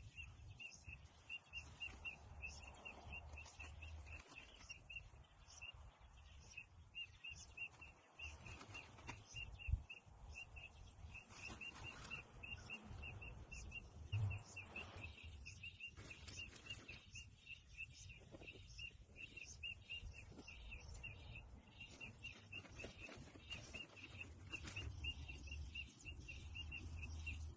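Faint outdoor ambience: a quick, even series of high chirps at one pitch repeating throughout, with scattered higher chirps and a low rumble underneath.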